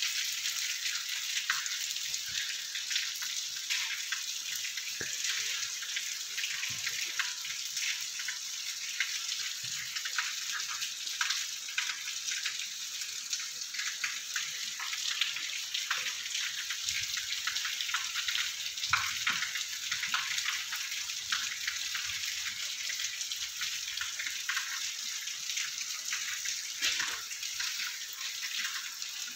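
Steady rain falling onto wet, puddled ground: an even hiss scattered with many small drop ticks.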